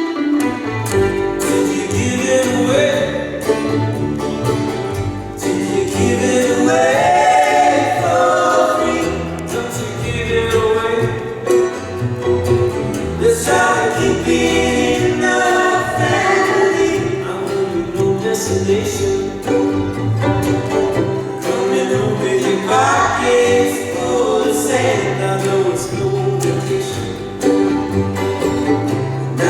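Live band performance of a folk-pop song: several voices singing in harmony over plucked strings and a stepping bass line.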